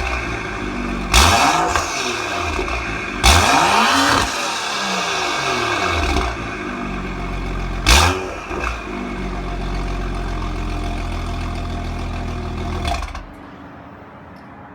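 BMW 435i's turbocharged N55 inline-six, breathing through a resonator-deleted M Performance exhaust and cattless downpipe, free-revved three times, each rev rising and falling with a sharp crackle at the peak. It then idles steadily and cuts off near the end.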